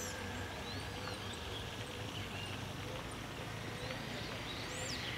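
Wild birds calling over a steady outdoor background with a low hum: a few short arched chirps and several quick, high, falling whistles.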